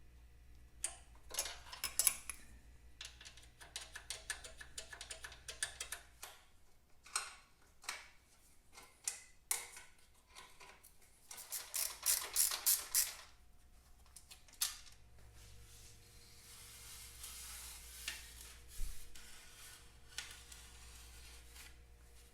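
Workshop hand-tool work on metal parts: scattered clicks and metallic clinks, with a quick run of clicks about twelve seconds in.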